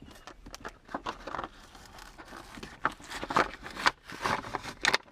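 Parts packaging being opened by hand: irregular crinkling and tearing with scattered sharp clicks.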